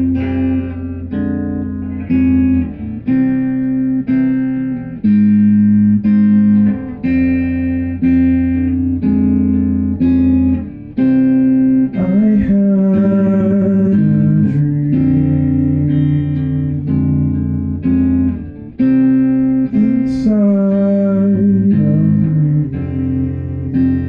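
Band rehearsal music led by guitar: chords changing about every second, with sliding or bent notes about twelve and twenty seconds in.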